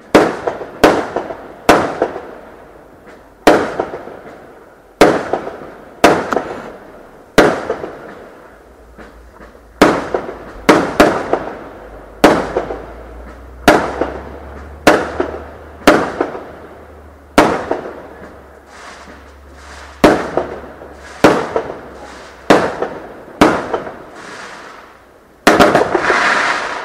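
Fireworks going off in a long run of sharp bangs, roughly one every second, each dying away quickly. Near the end comes a longer, denser burst lasting about a second.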